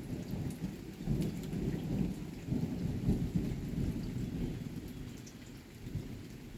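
A long roll of thunder, a deep uneven rumble that is loudest in the first half and dies away toward the end, over rain pattering.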